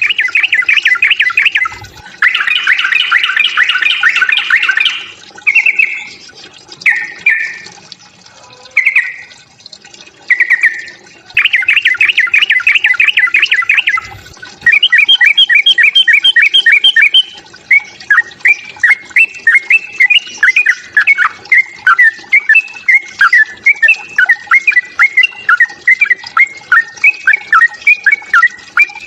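Yellow-vented bulbul (trucukan) giving its aggressive fighting call: loud bursts of fast chattering trills broken by short phrases, then a steady run of separate falling notes.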